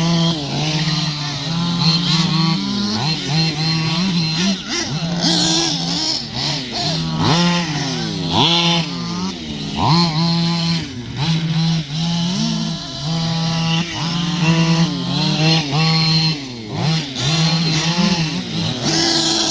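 Radio-controlled model cars' small engines running on a track: a steady idle hum broken again and again by quick revs that rise and fall in pitch, with more than one engine at a time.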